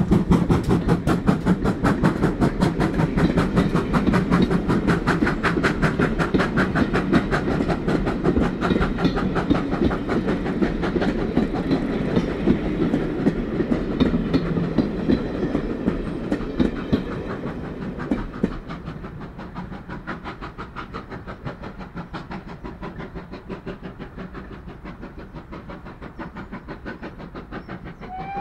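Passenger coaches rolling past behind a steam locomotive, with a low rumble and a fast, steady clickety-clack of wheels on the rails. The sound fades away over the last ten seconds as the train draws off.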